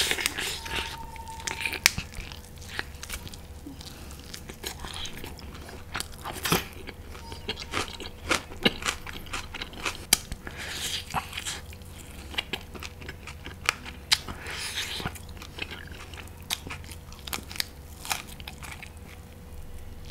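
Close-miked chewing and crunching of a mouthful of mutton, with irregular sharp crunches as the cartilage is bitten through.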